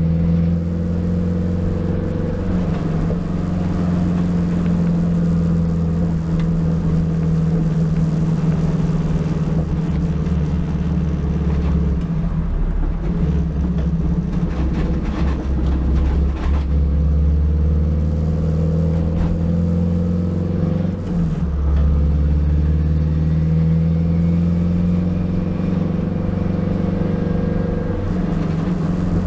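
Turbocharged Honda K20 inline-four in an EK Civic, running under way at a fairly steady engine speed, with a brief drop in the engine sound about two-thirds of the way through.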